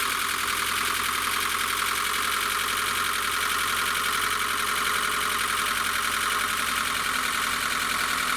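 Car engine idling just after a cold start, with a loud, rapid rattle from the top of the engine, a racket that the mechanic puts down to the valvetrain or timing chain: rocker arms, a broken chain guide or a tensioner that does not hold.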